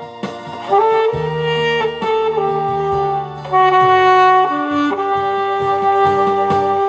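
Alto saxophone playing a slow melody over a backing track with bass and a light drum beat, ending on a long held note.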